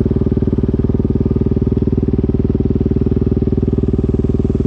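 KTM motorcycle engine running steadily at an even speed, its firing pulses regular and its pitch unchanging.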